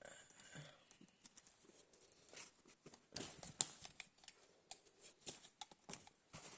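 Handling noise from an electric heating pad's cable and plug being handled: scattered clicks and taps with rustling, busier and louder from about halfway through.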